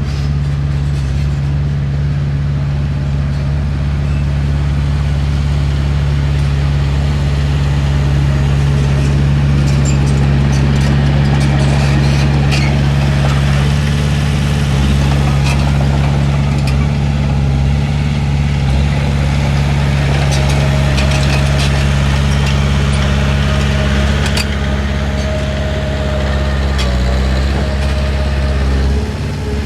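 Diesel engine of a Komatsu D31P crawler bulldozer running steadily at a constant speed, with scattered short clicks and knocks.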